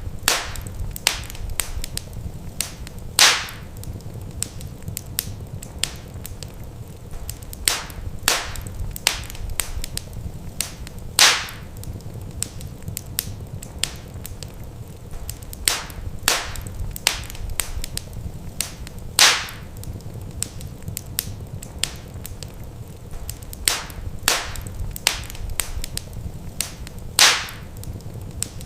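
Wood fire crackling: a steady run of small sharp snaps, with a louder pop about every eight seconds, over a low steady rumble.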